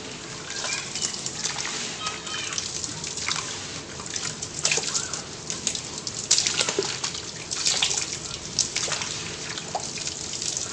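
Sand-and-cement mixture crumbling and soaking in water: a steady fizzing crackle with scattered small pops and drips.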